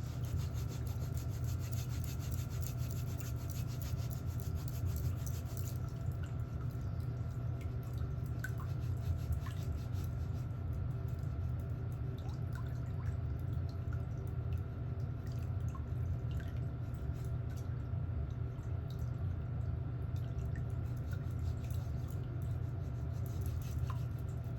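Nail tools scraping and rubbing on a thickened, fungus-affected toenail, with small scattered ticks, over a steady low hum.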